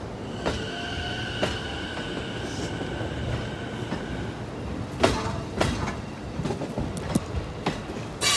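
E233-series electric train moving slowly through the depot, its wheels clacking over rail joints at irregular intervals, with a high steady squeal for the first few seconds. A sudden loud crackle comes right at the end.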